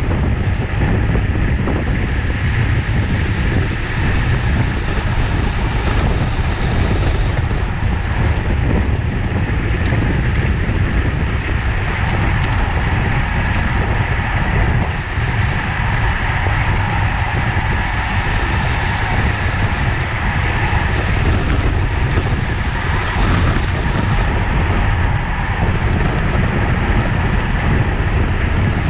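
Steady wind noise on the microphone of a camera riding on a road bike at race speed, a constant low rumble.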